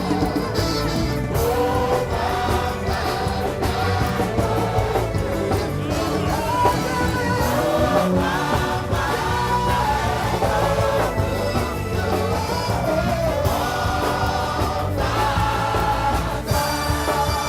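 Gospel praise music: a choir singing over a band with a steady beat.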